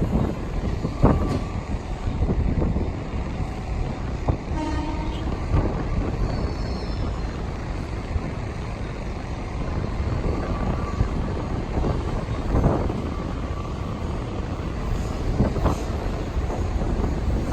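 KRL commuter electric train running, a steady rumble with a rush of noise, and a brief pitched tone about four and a half seconds in.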